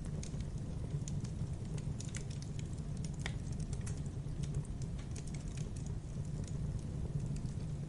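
Wood fire crackling: irregular sharp pops and snaps over a steady low rumble of the burning, with one stronger snap about three seconds in.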